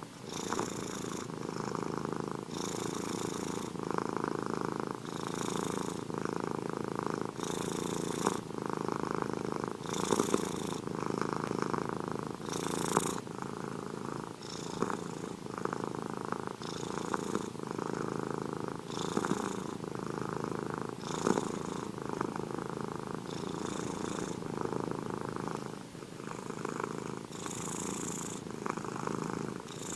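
Domestic cat purring steadily up close, the purr swelling and easing with each breath about every two seconds.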